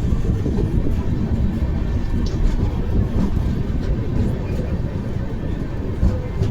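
Amrit Bharat Express train running, heard from inside a coach: a steady low rumble with a few faint clicks.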